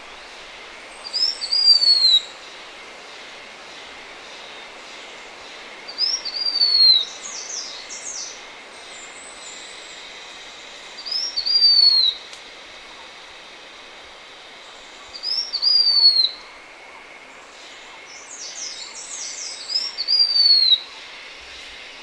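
Blue-winged minla singing: five short, high, thin phrases about every four seconds, each a quick upward note followed by a longer note that slurs down in pitch. A few other quick high notes come between some of the phrases, over a steady faint hiss.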